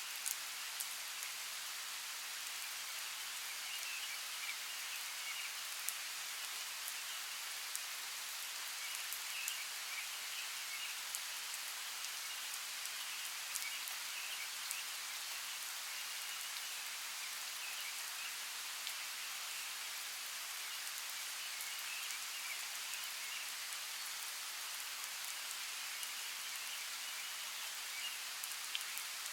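Steady rainforest rain: a dense, even hiss with many scattered drops ticking, and a faint high chirring in the background.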